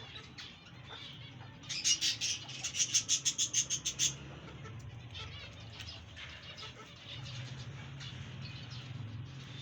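Budgerigars chirping softly in an aviary, with a loud two-second burst of rapid wingbeats about two seconds in, as a bird flaps.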